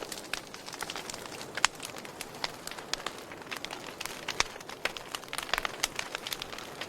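Wood campfire crackling: irregular sharp pops and snaps over a soft hiss of burning, with one louder pop about a second and a half in.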